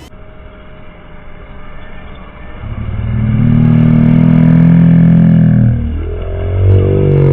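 A motor revving: a steady drone builds up about three seconds in and holds, then swells and falls away near the end.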